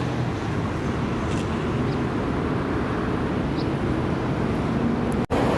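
American car's engine running steadily at idle, a low even rumble with no revving. A split-second dropout near the end.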